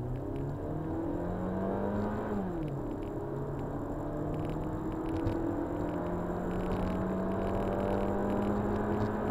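Kia Ceed 1.6 automatic's engine pulling hard under full acceleration, heard from inside the car. The engine note rises, drops sharply at an automatic upshift about two seconds in, then climbs steadily through the next gear until another upshift at the very end.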